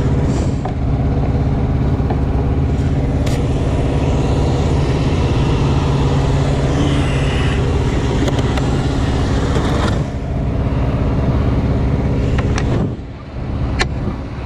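A truck engine idling steadily, a constant low hum that dips briefly near the end.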